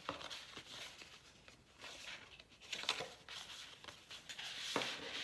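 Paper rustling and crinkling as journal pages and loose paper pieces are handled, with a few brief taps or clicks.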